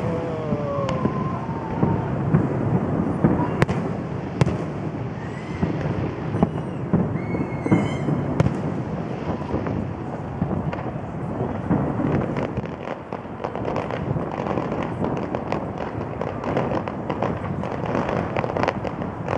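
Fireworks display: a rapid, continuous run of bangs from bursting shells over steady crackling, with a few whistles about five to eight seconds in.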